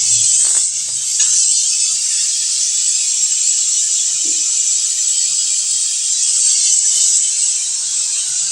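Steady, loud hiss of pressurized gas rushing through a refrigerator's tubing while the clogged evaporator lines are flushed. There are a few light ticks near the start and a brief squeak about four seconds in.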